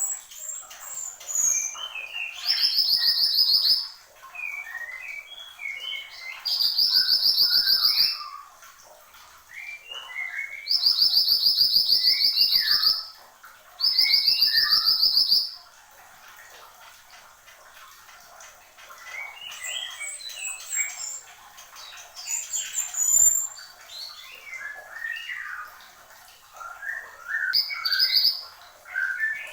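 A mantenan gunung songbird singing: many short chirps and whistles, broken in the first half by four loud, rapid buzzing trills that each last about a second and a half.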